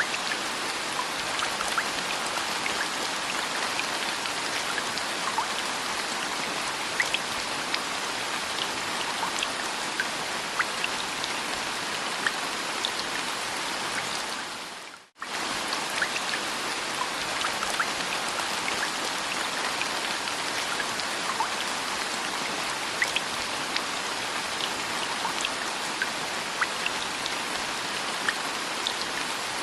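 Steady rain ambience, an even hiss of rainfall with scattered small drop ticks. It fades out briefly about halfway through and comes straight back.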